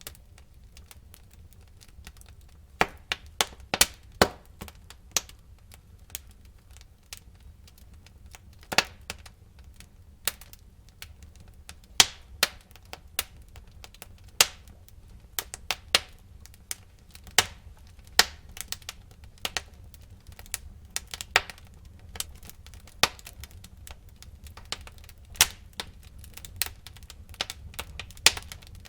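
Wood fire burning in a fireplace: irregular sharp crackles and pops, some much louder than others, over a faint low rumble of the flames.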